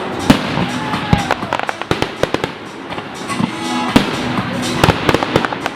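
Fireworks display: aerial shells and crackling fireworks bursting in quick, irregular succession, many sharp bangs, over music playing from the display's sound system.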